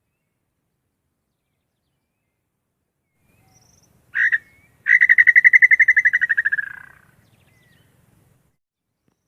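Male inhambu (tinamou) call: one short whistled note, then after a brief pause a long, rapid trill of whistled notes that slowly falls in pitch and fades out.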